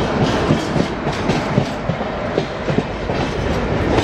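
Shatabdi Express passenger coach running on the rails, with a steady rumble and irregular wheel clicks over rail joints and points.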